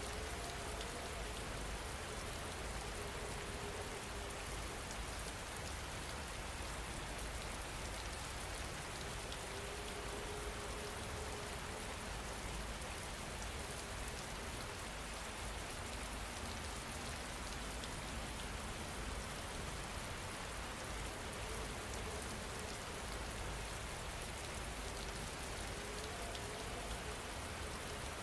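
Steady rain falling, an even continuous hiss with fine pattering drops.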